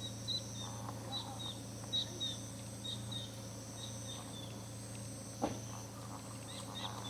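Birds chirping in short, quick repeated calls over a steady high insect drone and a low steady hum, with a single sharp knock about five and a half seconds in.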